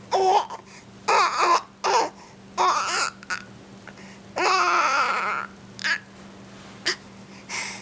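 A baby cooing and babbling in a string of short, high-pitched vocal sounds that slide up and down in pitch, the longest about halfway through.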